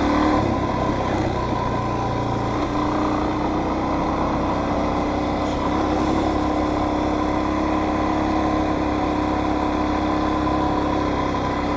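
Kawasaki KLX400R dirt bike's single-cylinder four-stroke engine running at a steady, even pitch.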